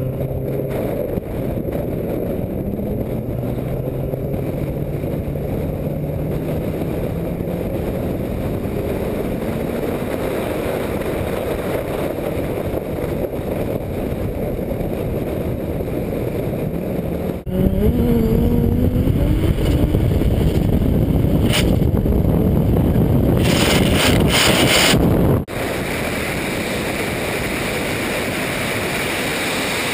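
Onboard sound of a turbocharged Audi S4 race car's engine driving on track, with wind noise on the microphone. At first the engine note climbs steadily as the car accelerates; about halfway through it turns suddenly louder for several seconds, the pitch sliding up and down, then drops back to a steady drone.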